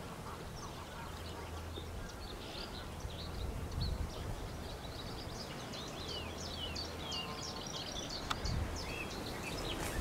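Birds chirping and calling in quick, overlapping high notes, over a steady low rumble.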